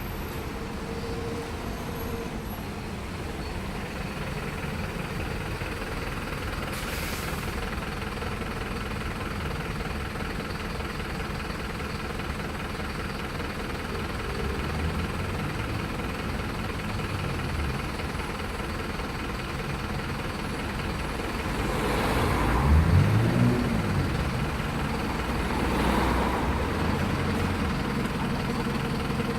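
Road traffic: a steady hum of vehicles, with one vehicle passing louder about three-quarters of the way through, its engine note rising and falling, and another shortly after.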